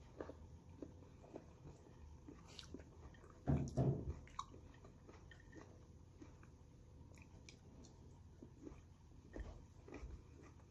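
A person chewing crisp persimmon slices with soft, wet mouth clicks. A brief louder burst of mouth noise comes about three and a half seconds in.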